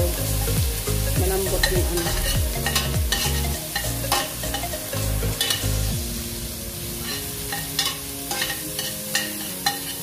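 A metal spoon stirring and scraping meatballs and chopped onions in a stainless steel stockpot, clinking against the pot, over the sizzle of onions frying in a little oil.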